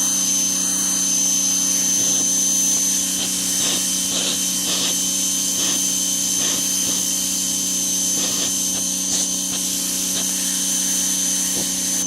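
Ryobi 1700 PSI electric pressure washer running steadily at full pressure, a loud motor-and-pump hum with a high whine. Right at the end it is switched off and the motor starts to wind down.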